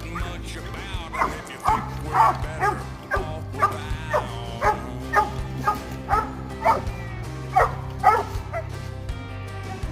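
Coonhound barking treed at a raccoon up a tree, a steady run of short barks about two a second, over background music.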